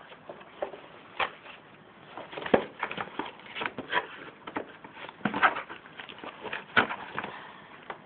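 Cardboard box and packing being handled and tugged at to free a modem stuck inside: irregular knocks, scrapes and rustles, the loudest about two and a half, five and a half and seven seconds in.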